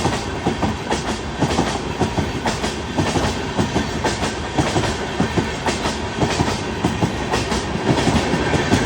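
Express passenger train running at high speed: a steady rumble with a rapid, irregular clatter of wheels over the rail joints.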